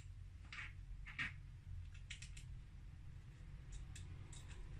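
Faint, scattered clicks and taps of small plastic keyboard switches being handled and set back into a circuit board, over a low steady hum.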